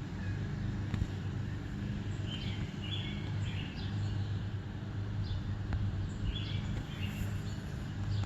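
A bird chirping in short bursts, three or so groups of quick notes, over a steady low hum.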